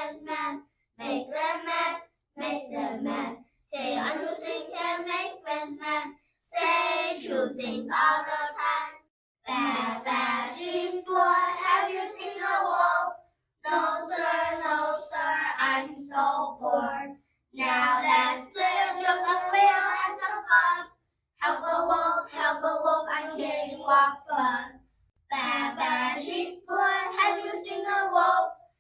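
Children singing a song together, in phrases of a few seconds each with short breaks between them.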